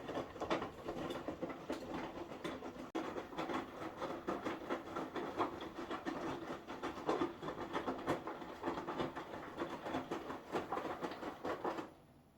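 Indesit 1400-spin washing machine in its wash cycle: the drum turning with a steady hum and a rapid, irregular clatter of clicks and taps. It cuts off abruptly near the end.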